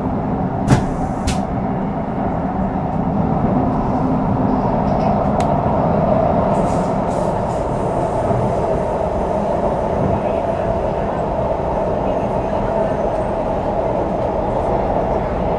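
Steady running noise heard inside a CRRC Changchun-built metro motor car: a continuous rumble of wheels on rail and traction equipment, with two sharp clicks about a second in and another a few seconds later.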